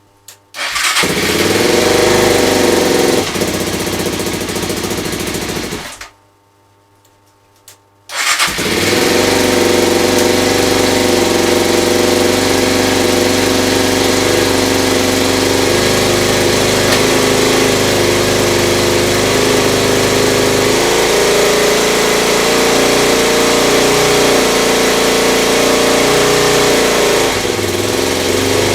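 Suzuki Djebel 250's single-cylinder four-stroke engine starting, running for about five seconds and stopping, then starting again about two seconds later and running steadily. This is the test start after a timing chain replacement.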